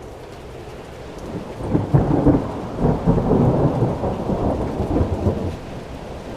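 Rolling thunder over steady rain. The rumble builds about a second and a half in, crackles for about four seconds and dies away near the end.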